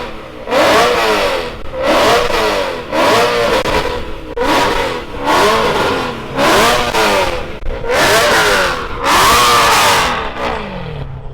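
Car engine free-revved in place, about eight sharp blips in a row, each rising and falling, the last held longer before dropping back toward idle.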